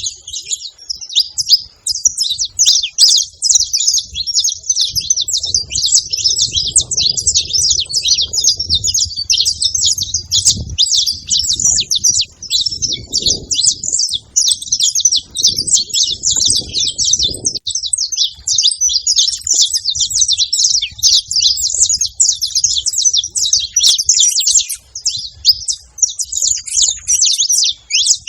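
Saffron finches singing: a dense, continuous run of rapid high chirps and trills.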